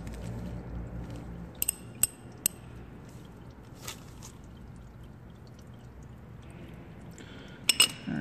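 Engine oil trickling and dripping from the oil pan drain hole into a drain pan, the flow slowing near the end of the drain, with a few sharp metallic clinks.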